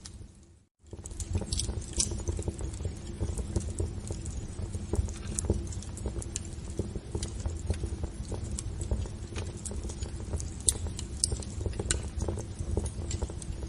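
Wood fire crackling in a fireplace: a steady low rumble of burning with irregular sharp pops and snaps. The sound cuts out for a moment just under a second in, then comes back.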